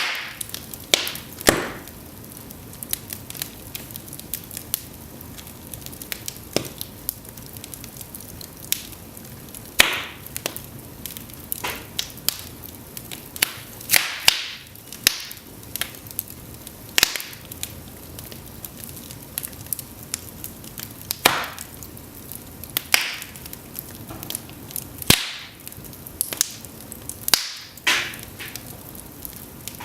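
Cedar logs burning in an open fireplace: irregular sharp snaps and pops every second or two, several of them louder, over a soft steady hiss of the flames.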